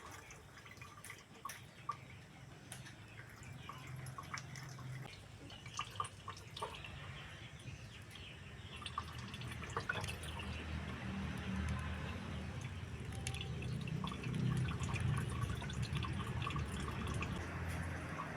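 Distilled rice liquor dripping irregularly from the outlet of a home still, small scattered drips. A low electric hum grows louder from about halfway through.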